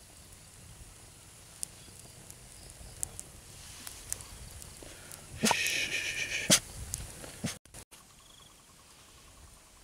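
A dog gives a short, pitched vocal sound for about a second, roughly five and a half seconds in, over faint scattered ticks and rustling.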